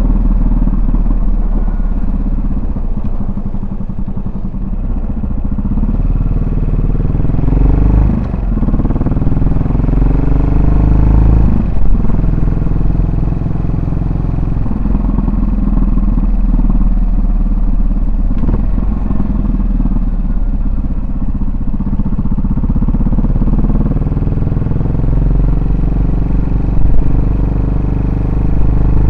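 Yamaha SR400's single-cylinder four-stroke engine and exhaust under way, revs climbing in pitch and dropping at gear changes about 8 and 12 seconds in, then climbing again near the end.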